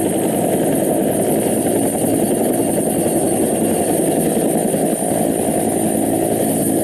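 Helicopter running: a steady, dense rumble of engine and rotor with a thin, high whine held above it.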